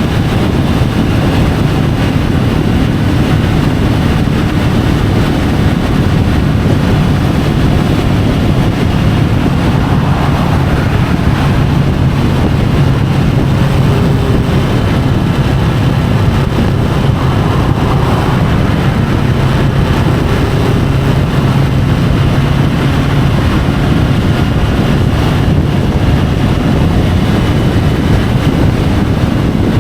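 Triumph Tiger 850 Sport's three-cylinder engine running steadily while riding at a constant pace, with wind rushing over the microphone.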